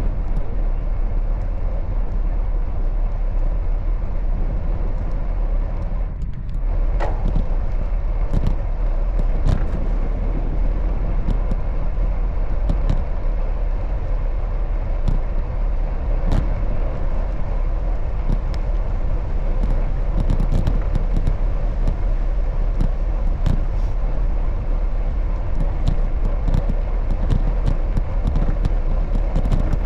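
Steady wind rumble and road noise from riding a bicycle, with scattered sharp clicks and rattles from about six seconds in.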